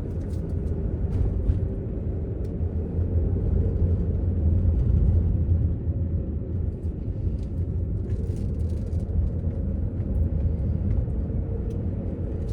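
2005 Land Rover Freelander being driven, heard from inside the cabin: a steady low engine and road rumble that swells a little about four to five seconds in.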